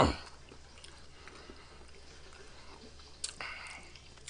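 Close-up mouth sounds of chewing a fried fish sandwich, with faint wet smacks and small clicks, and a short sharper bite or smack about three seconds in. It opens on the end of a loud, sudden burst.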